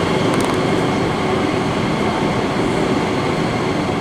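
Train running steadily: a continuous rumble with faint steady high tones.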